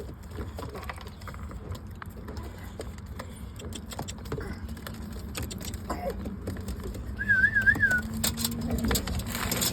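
Domestic pigeons cooing in a low, steady drone, with scattered light clicks. About seven seconds in there is a brief warbling whistle.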